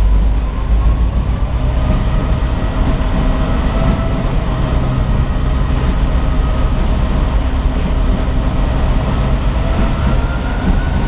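Passenger train rolling along the track: a steady, loud rumble of wheels and cars, with faint drawn-out tones of wheel squeal that drift slowly in pitch and rise slightly near the end.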